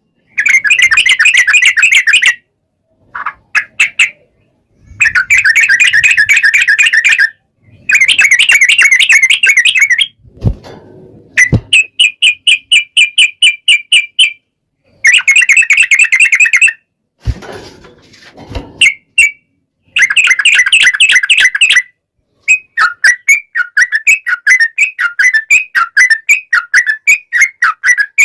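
Yellow-vented bulbul (trucukan) singing a long rapid song: loud bursts of fast chattering trills about two seconds each, repeated with short gaps. Near the end the song breaks into quick separate notes, about three or four a second, and there are a few faint knocks between phrases.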